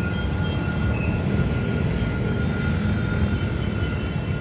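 Passenger train running past on the track, a steady rumble with a thin steady whine above it.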